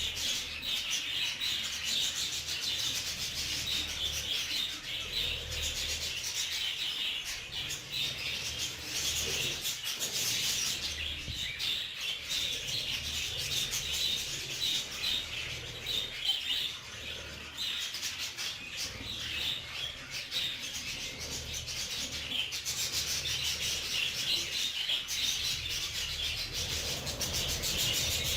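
Budgerigars chattering, a dense run of short scratchy chirps that keeps going without a break.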